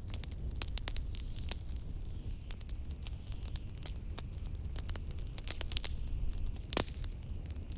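Fireplace crackling, with frequent sharp pops, the loudest about seven seconds in, over a steady low rumble of blizzard wind.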